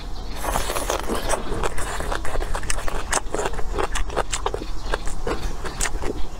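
Close-up chewing of a bite of roasted bamboo shoot: a dense run of short, sharp chewing clicks and mouth smacks.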